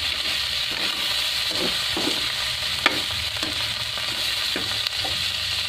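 Pork belly pieces, onion and garlic sizzling steadily in hot oil in a wok as a spatula stirs them. There are a few sharper scrapes and taps of the spatula against the pan, the clearest about three seconds in.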